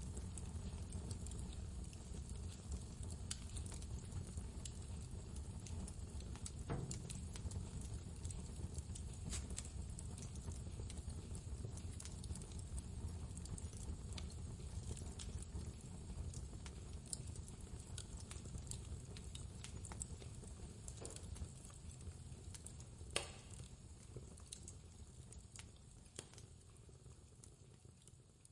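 Wood fire crackling in a fireplace: scattered sharp pops, one louder snap about three quarters of the way through, over a steady low rumble. The whole sound fades down over the last few seconds.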